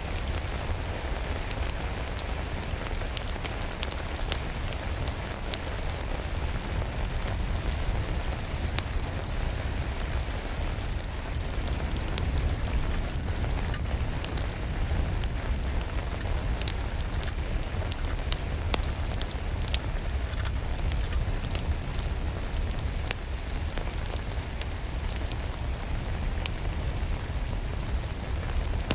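Steady rain falling, mixed with a crackling wood fire in a fireplace that gives scattered sharp pops and snaps throughout, over a low rumble.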